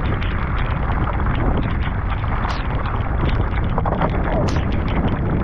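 Heavy rain on open water, with many sharp drop hits and a steady low buffeting of wind on the microphone.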